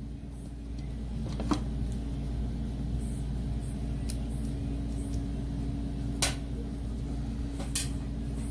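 A steady low mechanical hum, a little louder from about a second in, with a few sharp clicks and taps of tools or parts being handled.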